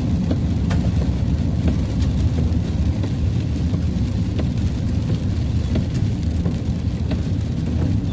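Steady low drone of a vehicle's road and engine noise, heard from inside the cab while driving, with scattered light taps of rain on the vehicle.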